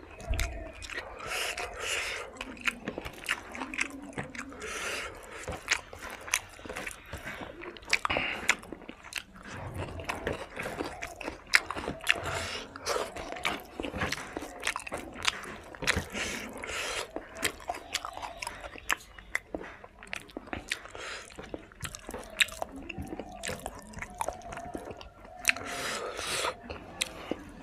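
Close-up eating sounds of a person chewing fried pork and rice, with many sharp, irregular wet mouth clicks.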